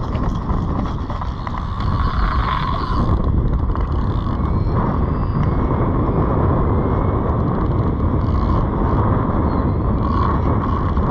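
Wind rumbling over the microphone, a loud steady roar with no breaks. A faint thin whine joins it about halfway through.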